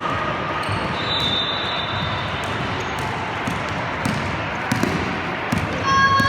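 Basketballs bouncing on a gym floor during a drill, against the steady noise of a large sports hall, with a few brief high squeaks and a longer one near the end.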